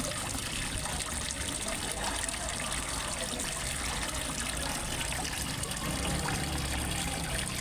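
Water from a small pond waterfall trickling and splashing steadily into a fish pond.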